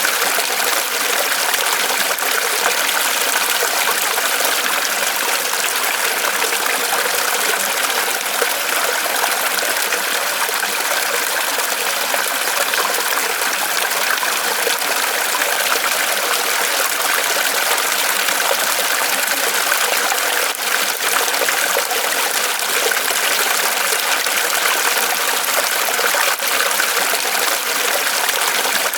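Small waterfall of water trickling and splashing steadily off a tree trunk.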